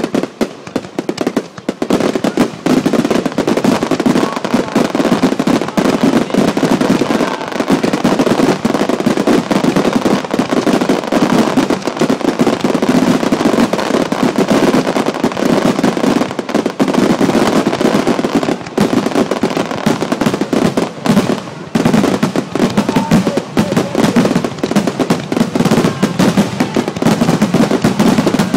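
Fireworks: aerial shells bursting in a dense, continuous barrage of overlapping booms and crackle, with no pause.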